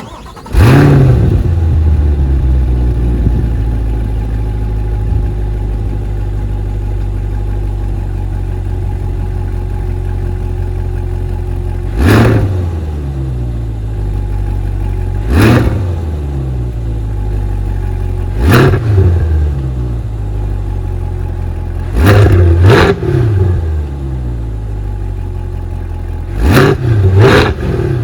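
Chevrolet Corvette C8's 6.2-litre LT2 V8 with the Z51 performance exhaust starting up about half a second in, flaring to a high idle that settles, then idling steadily. It is blipped to quick revs seven times, the last four in two close pairs near the end.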